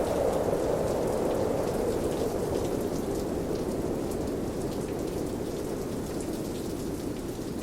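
Rain falling, with fine pattering drops, over a deep rumble that slowly sinks and fades.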